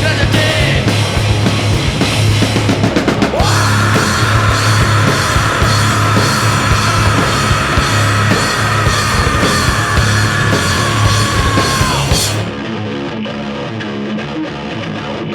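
Rock band playing live with distorted guitars and drums. A long high note is held for several seconds, then the full band drops out suddenly and a quieter ringing remains, with drum hits near the end.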